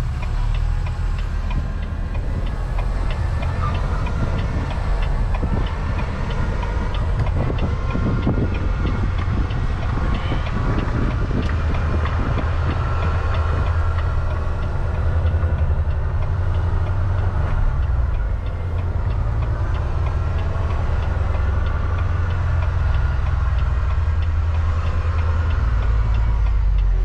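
Semi truck's diesel engine droning steadily with road noise, heard from inside the cab while driving, with a light regular ticking over it.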